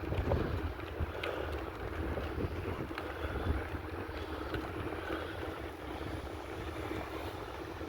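Wind buffeting the microphone of a moving bicycle rider, a steady low rumble with the faint whir of the bike rolling along the trail.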